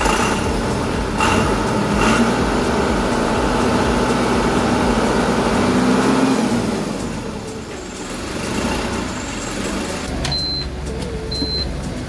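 Diesel engine of working farm machinery running hard and steady, then easing off about six or seven seconds in. Two short high peeps come near the end.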